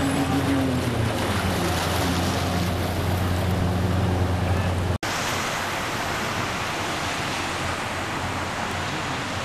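Steady rushing noise of heavy rain and running floodwater. For the first five seconds a low engine hum runs beneath it; this stops at a sudden cut about five seconds in, and only the rushing noise goes on.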